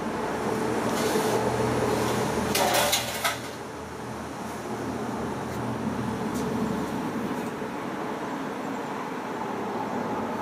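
Knocks and a short clatter of someone handling a washing machine's parts, the loudest about three seconds in, over a low steady hum.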